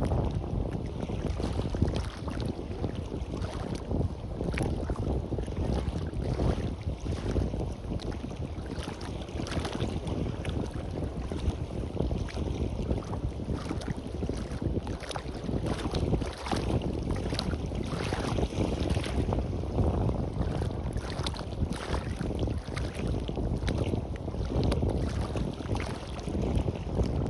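Waves washing and fizzing onto a beach, with wind buffeting the microphone as a steady low rumble.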